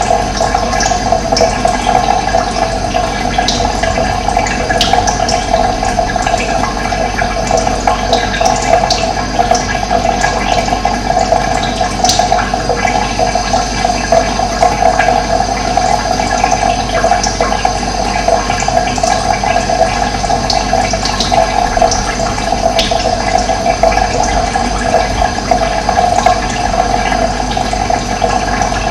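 Steady rush of running water, with occasional brief high bird chirps over it.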